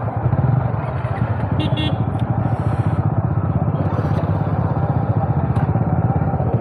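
Motorcycle engine idling steadily at a standstill, an even, fast low pulse with no revving.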